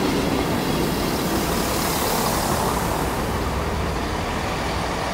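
Transport for Wales diesel multiple unit running past at close range: engine drone under the noise of wheels on rail, easing slightly after the last car goes by.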